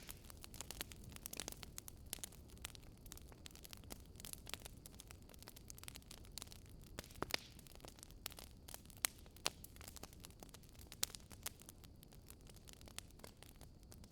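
Burning firewood crackling: irregular sharp pops and snaps, a few louder than the rest, over a soft steady rustle of the fire.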